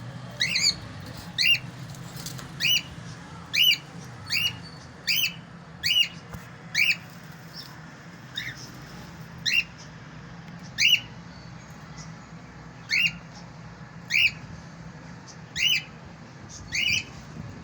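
Male cockatiel calling: short, loud, upward-sweeping calls repeated about once a second, sometimes in quick pairs.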